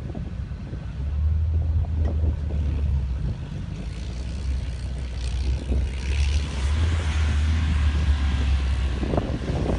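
Four-wheel-drive vehicle's engine revving under load on a sand climb, a low rumble that swells twice, with a hiss rising over the second push.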